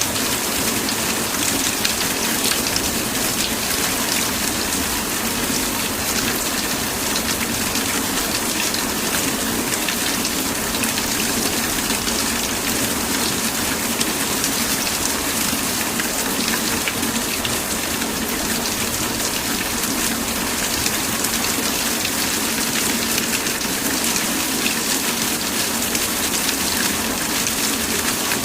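Steady rain falling, with many fine drops pattering on a surface.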